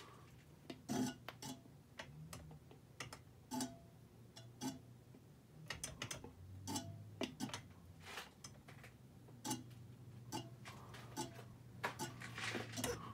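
Harbor Breeze Armitage 42-inch ceiling fan running with a steady low hum, with light ticks and clinks at irregular intervals.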